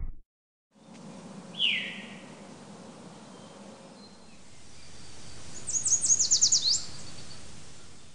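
Quiet outdoor hush with bird calls: a single downward-sliding call about one and a half seconds in, and a quick trill of about ten falling notes a little after the middle.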